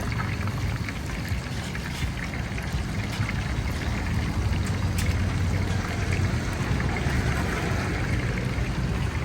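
Hot oil sizzling steadily with many small crackles as battered chicken pieces deep-fry, over a low steady hum.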